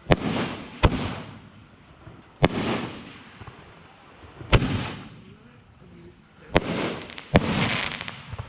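Consumer fireworks going off: six sharp bangs about one to two seconds apart, each followed by a second or so of crackling hiss.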